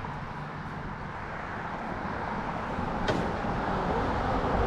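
An engine running steadily with a low rumble, getting a little louder toward the end, with one sharp click about three seconds in.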